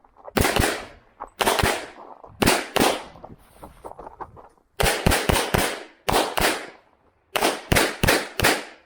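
Pistol shots from an STI 2011 in .40 S&W, fired in quick pairs and short strings of four, roughly eighteen shots in clusters with brief pauses between them as the shooter moves between target arrays.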